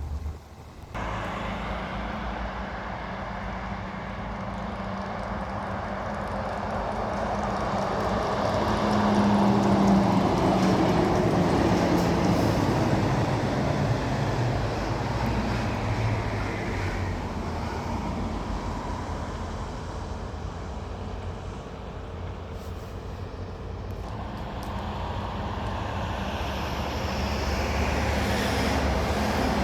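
Heavy trucks driving past on a road: a diesel engine note swells to its loudest about ten seconds in and drops in pitch as the truck goes by, then another vehicle approaches near the end.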